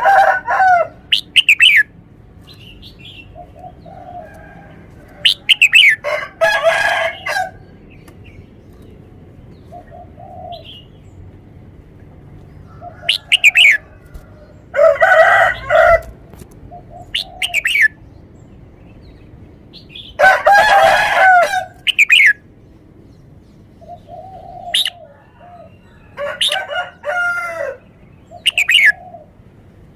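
Red-whiskered bulbul singing: a string of loud, short whistled song phrases every few seconds, with fainter calls between them.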